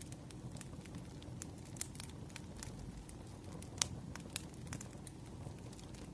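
Campfire crackling: irregular sharp pops and snaps over a low steady rumble of burning wood, with the loudest pop about four seconds in.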